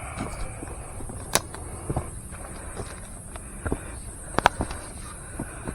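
Footsteps of a hiker on a forest trail: irregular crunches and knocks, two of them sharper about a second and a half in and near the end, over a steady high-pitched hiss.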